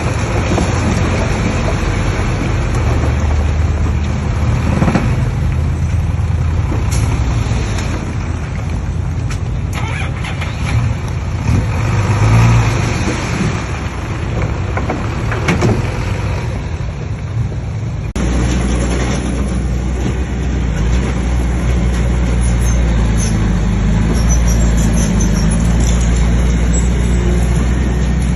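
Heavy earthmoving machinery at work: a large diesel engine running steadily under load, with a few short knocks and clatters of stone. The sound changes abruptly about two-thirds of the way through, to a steadier, deeper engine drone.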